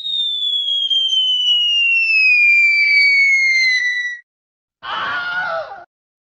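Cartoon falling sound effect: a long whistle gliding down in pitch for about four seconds. After a short gap comes a painful scream lasting about a second.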